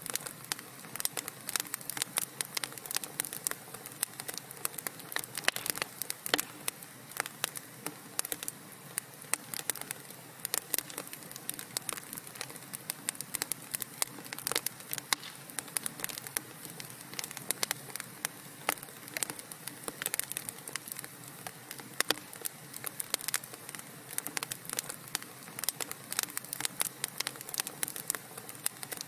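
Wood fire crackling in a fireplace: a dense, irregular run of sharp pops and snaps over a soft steady hiss.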